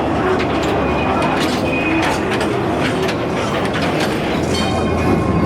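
Theme-park ride train rolling along its track, with rattling clicks from the wheels and brief high-pitched wheel squeals, the longest near the end.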